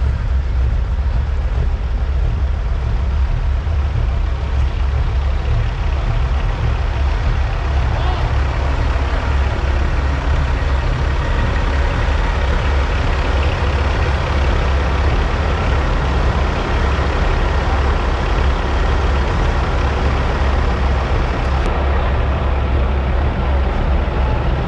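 Diesel semi-truck engines idling steadily, a continuous low running sound, with people talking in the background.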